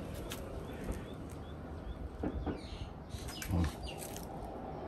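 Quiet ambience with short, high bird chirps repeated about three times a second for a couple of seconds, and a dull thump about three and a half seconds in.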